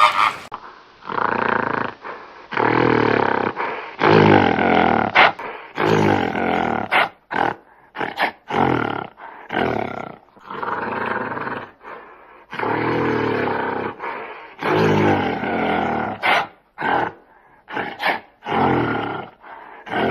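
An animal giving a long series of low, drawn-out pitched calls, each about a second long, with short pauses between them.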